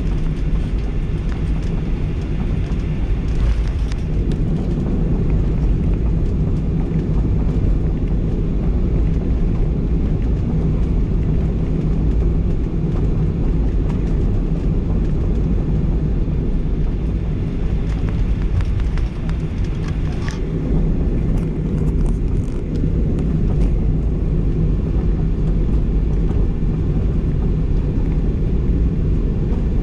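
Steady low drone of a Boeing 737-800's CFM56 jet engines and airframe, heard inside the passenger cabin, holding an even level without rising or falling.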